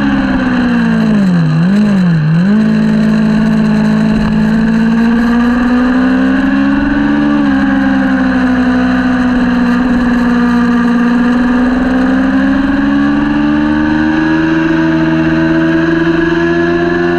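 Kawasaki Ninja 400 parallel-twin engine at racing revs. Its pitch dips sharply twice in quick succession near the start, then holds high, rising and falling slowly.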